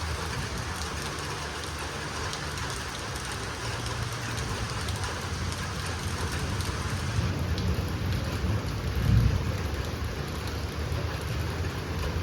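Heavy rain falling steadily, with a low rumble underneath that swells briefly about nine seconds in.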